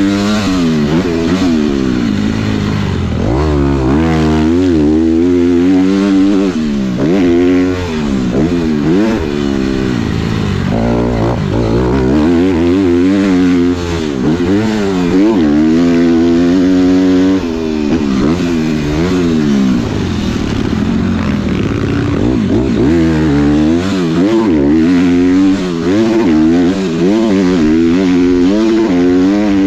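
Dirt bike engine being ridden hard around a motocross track. The revs rise and fall over and over every second or two as the throttle is opened and chopped through the gears, with a few brief dips.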